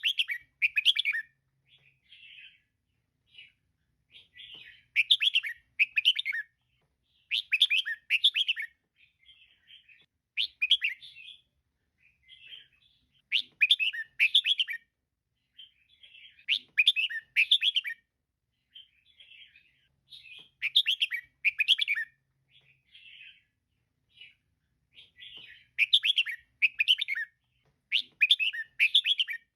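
Female red-whiskered bulbul calling: loud, short chattering bursts of notes repeated about every three seconds, with softer calls in between.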